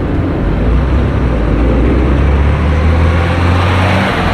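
A car engine running loudly, its low note holding steady and then falling away about four seconds in.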